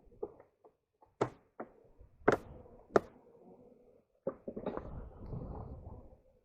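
Wooden beehive boxes and frames being handled: four sharp knocks and clacks about a second apart, then a couple of seconds of scraping and shuffling as the equipment is shifted.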